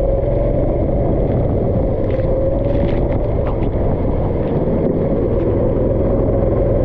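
Go-kart engine running at a near-steady pitch that wavers slightly, over a steady noisy rush.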